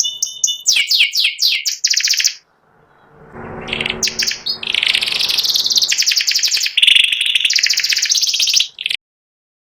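Domestic white panda canary singing in fast trills and chattering phrases, with a short pause about two and a half seconds in. A low rustling noise sits under the song as it picks up again, and the song cuts off suddenly near the end.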